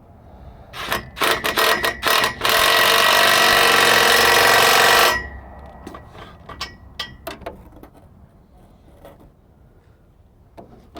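Impact wrench (impact gun) fired in a few short blips, then run for about three seconds before stopping abruptly, working a fastener on the exhaust.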